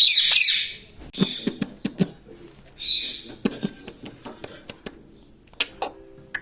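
Indian ringneck parrot giving a loud, high-pitched squawk at the start and a shorter call about three seconds in, with a scatter of light clicks and taps in between.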